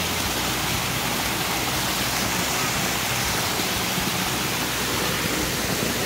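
Steady rush of a waterfall spilling over rock ledges, with the creek running over stones close by.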